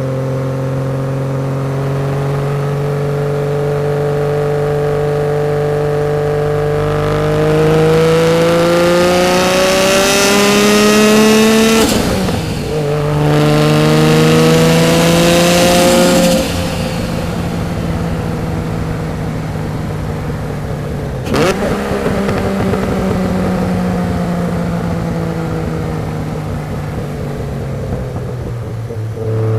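Single-turbo RB26 straight-six of a 1991 Nissan Skyline GT-R, running steadily and then accelerating. The revs climb, dip at what sounds like a gear change about twelve seconds in, and climb again. Then they fall away slowly off throttle, with one brief sharp crack partway through the fall.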